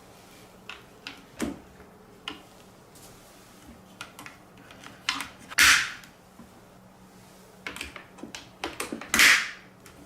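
Marbles rolling and clicking down a plastic TrixTrack wave-slope marble run: scattered sharp clicks, with two louder, longer rattles about halfway through and near the end.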